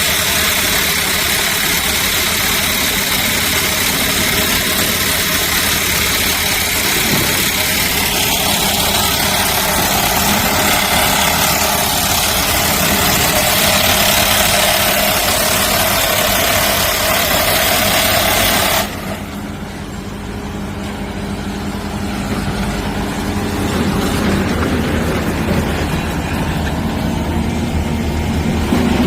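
Construction machinery engine running steadily, with a loud hiss-laden drone; about two-thirds of the way through it cuts abruptly to a quieter engine sound.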